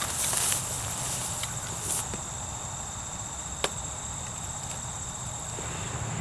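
Crickets or other insects chirring steadily at a high pitch. A rustle comes in the first half second and a single sharp click a little past halfway.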